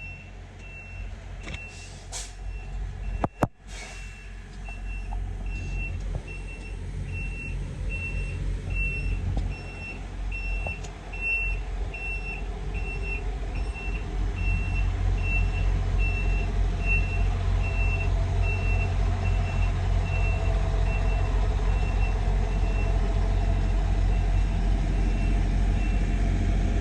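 A truck's backup alarm beeping steadily, just under two beeps a second, over the low rumble of idling truck engines that grows louder about halfway through. A single sharp knock sounds about three seconds in.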